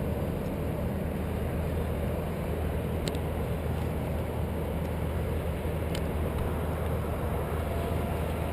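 An engine running steadily with a low rumble, with two faint clicks about three and six seconds in.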